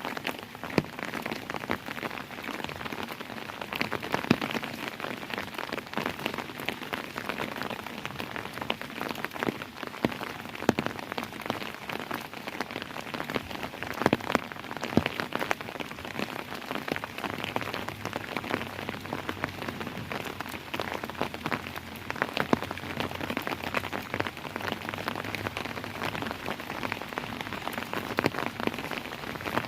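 Steady rain falling on a hard surface, many separate drops tapping and pattering close by over an even hiss.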